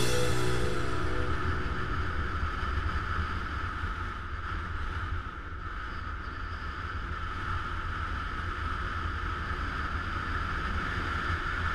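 Motorcycle riding along the road, its engine a steady low rumble under rushing wind noise on a bike- or helmet-mounted action camera's microphone.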